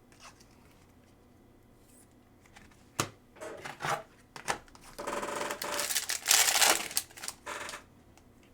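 Trading cards and their packaging being handled: a sharp click about three seconds in, a few brief rustles, then a louder stretch of rapid rustling and crinkling lasting a couple of seconds.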